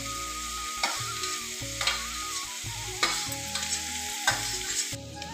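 Chopped onions, garlic and chillies sizzling in oil in a pan as chopped green capsicum is pushed in and stirred, with a spoon knocking sharply about four times.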